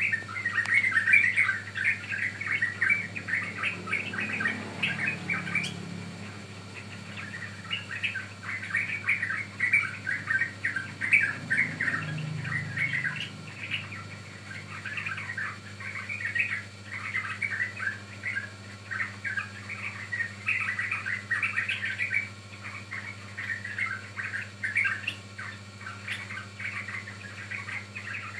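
Young yellow-vented bulbul (trucukan) singing: bouts of quick, bubbly chattering notes with short pauses between phrases.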